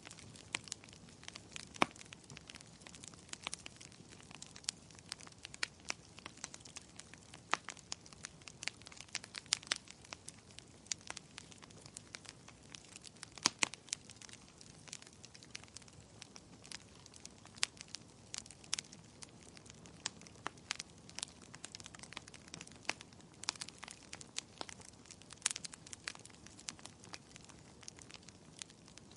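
Wood fire crackling: irregular sharp pops and snaps, several a second, over a faint steady hiss of rain.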